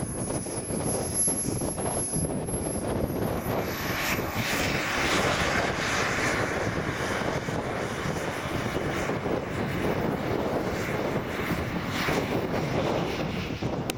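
Radio-controlled model airplane's motor and propeller running in flight, with a fluctuating rush of noise. A thin high whine climbs in pitch about three seconds in.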